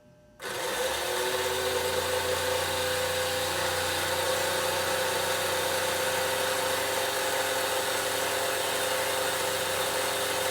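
American Flyer 752 Seaboard coal loader's electric motor starting about half a second in and running with a steady geared hum, lowering the clamshell bucket down the tower.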